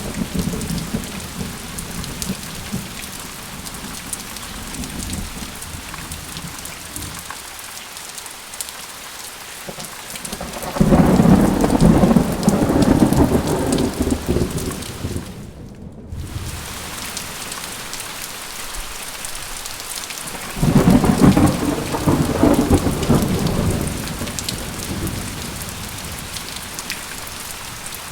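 Steady rain falling, with two rolls of thunder rumbling over it: one about 11 seconds in that lasts around four seconds, and another about 21 seconds in that lasts around three.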